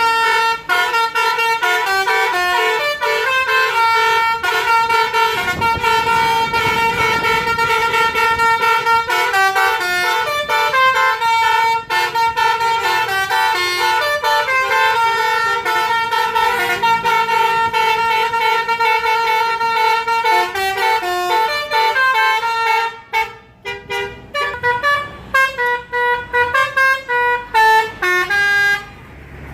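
Basuri musical bus horns playing fast melodies, note after note in quick steps. In the last few seconds the tune turns choppy, with short gaps between phrases.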